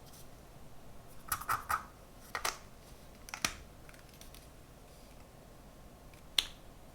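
Unboxing handling sounds: a quick run of sharp clicks and taps of parts and packaging being handled between about one and three and a half seconds in, then one louder single click near the end.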